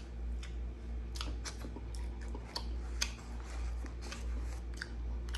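A person chewing a mouthful of Big Mac topped with chicken nuggets, with irregular mouth clicks and smacks. A steady low hum runs underneath.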